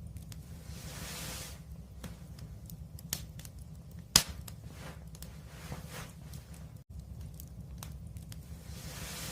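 Wood fire crackling, with scattered sharp pops and one much louder pop about four seconds in, over a steady low rumble. There are brief rushes of hiss about a second in and again near the end.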